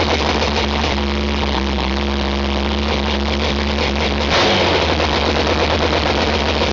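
2700cc air-cooled VW flat-four drag engine running loud and steady on a new high-lift cam and stepped exhaust, with a change in pitch and tone about four seconds in.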